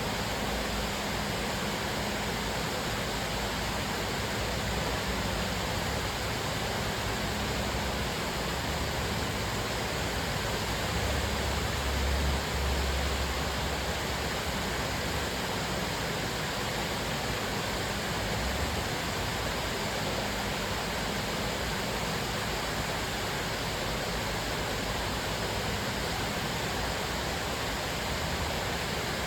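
Cascading waterfall: a steady, even rush of falling water. A deeper low rumble swells briefly about halfway through.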